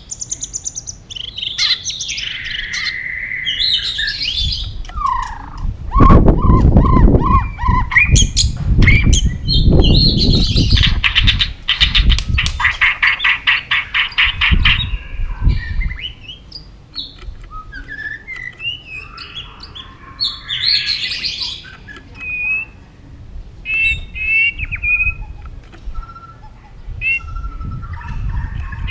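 White-rumped shama singing a varied song of clear whistles, chirps and a fast rattling trill. From about six seconds in to about sixteen, a loud low rumbling noise lies under the song.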